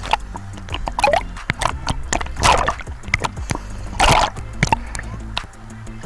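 Sea water splashing and sloshing close to the microphone, with two louder splashes about two and a half and four seconds in, over a low steady rumble.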